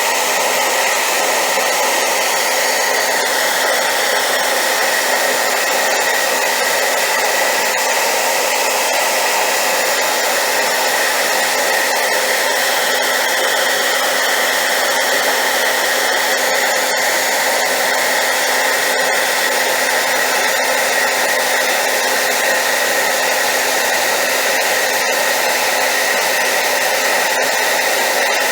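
High-power hair dryer running steadily: a loud, even rush of air with a steady whine in it.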